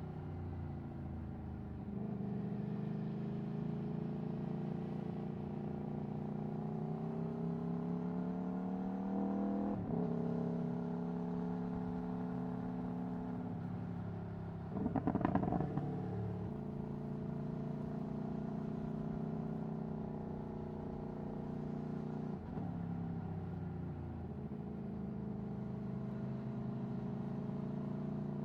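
Aprilia Tuono V4 1100's V4 engine through an Akrapovic Racing exhaust, pulling on the road. The pitch climbs steadily and drops sharply at gear changes about two, ten and twenty-two seconds in. A short loud clattering burst comes about halfway.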